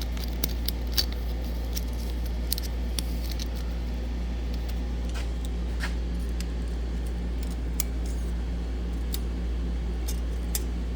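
Scattered light metallic clicks and clinks of feeler gauge blades and a straight edge being handled against a milled intake manifold face, over a steady low hum.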